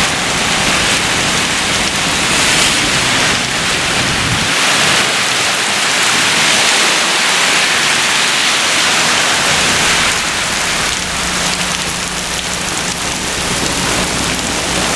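Torrential rain in a heavy thunderstorm downpour: a dense, steady hiss of rain pouring down onto hard surfaces.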